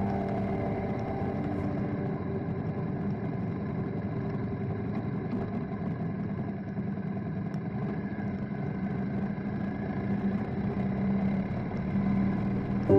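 BMW motorcycle running at a steady pace, with a steady engine note and rushing noise while under way.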